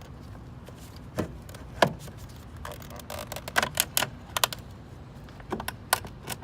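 Plastic side-mirror housing of a Lexus IS being pried apart by hand: a scatter of sharp clicks and small snaps, the loudest about two seconds in and several more close together in the middle.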